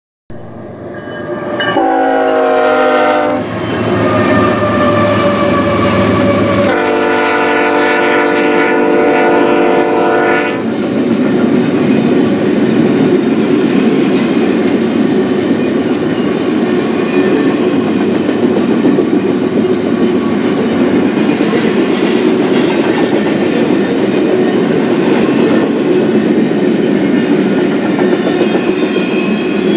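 Locomotive horn of a BNSF intermodal freight sounding two long chord blasts, the first dropping slightly in pitch, the second starting about seven seconds in. After the horn stops, the double-stack well cars roll past with a steady, loud wheel-on-rail rumble and clatter.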